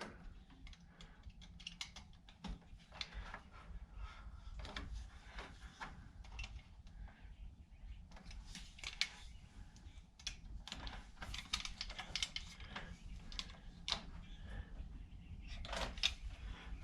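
Faint, irregular small clicks and scratches of a two-conductor lighting wire being worked apart by hand, its insulation being split between the conductors, with more clicks in the second half.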